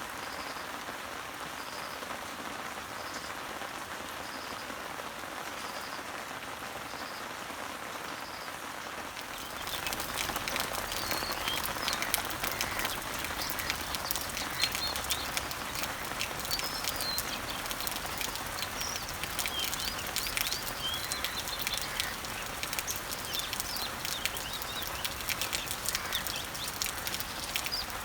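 Steady rain falling on leaves and trees, with birds chirping. For the first several seconds a bird repeats a short high note about once a second. About ten seconds in, the rain grows louder, with more distinct drops and scattered bird chirps.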